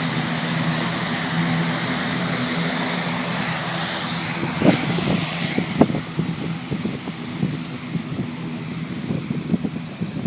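An ATR 72-600 turboprop's twin Pratt & Whitney PW127 engines and propellers running at takeoff power: a steady propeller drone that fades after about five seconds as the aircraft moves away. Gusty wind bumps on the microphone follow.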